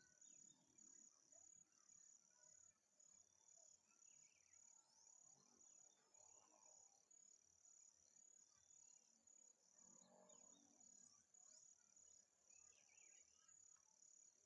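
Faint insect chorus, cricket-like: a high, thin trill that pulses on and off evenly, a little more than once a second, with scattered faint chirps.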